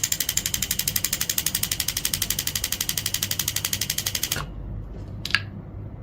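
A 24 V truck relay clicking rapidly and evenly, about a dozen clicks a second, as the relay tester switches its coil on and off. The clicking stops about four seconds in, and one more sharp click follows about a second later. The steady clicking is the sign that the relay is good.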